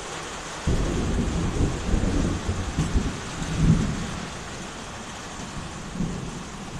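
Thunder rumbling over steady heavy rain: a low rumble breaks in suddenly about a second in, swells for a few seconds and fades, with a smaller rumble near the end.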